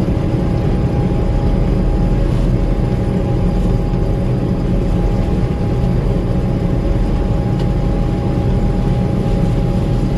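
Gleaner M2 combine running steadily while harvesting corn: a constant low engine and machinery rumble with a steady whine over it.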